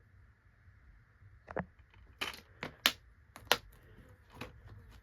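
Several sharp plastic clicks and clacks, the loudest two near the middle: a CD jewel case being handled and closed.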